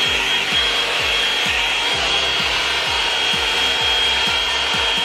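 Revlon Salon One-Step hot-air brush dryer running on hair: a steady rush of blown air with a thin, high motor whine held at one pitch. A steady beat of background music, about two to three thuds a second, runs underneath.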